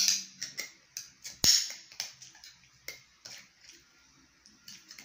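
Close-miked mukbang eating sounds: open-mouthed chewing with wet clicks and lip smacks, irregular and spaced out, the loudest a single sharp smack about a second and a half in.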